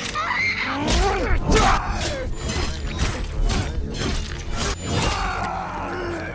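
Movie fight-scene sound effects: a rapid string of hard impacts and crashes with something shattering, over background music.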